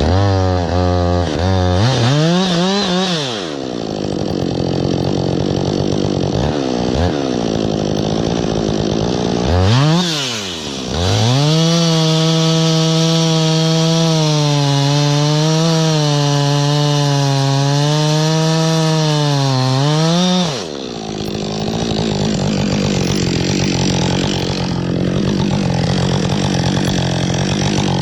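Chainsaw engine blipped up and down a few times, then held at full throttle for about ten seconds with its pitch wavering slightly as the chain cuts under load, before dropping back to low, uneven running.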